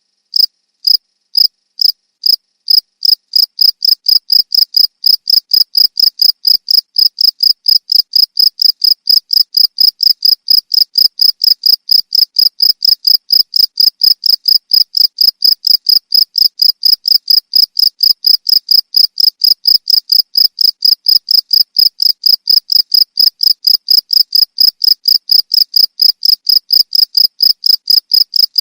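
Cricket chirping in a steady, even rhythm of short high-pitched chirps, about three to four a second.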